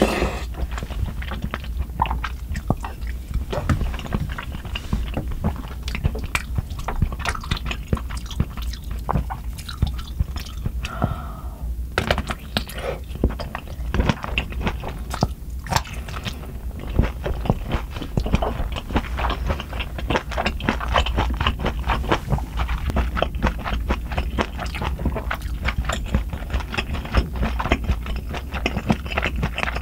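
Close-miked chewing of spicy soupy ramen noodles and kielbasa sausage: wet mouth sounds with many quick clicks and bites, the sausage bitten about halfway through.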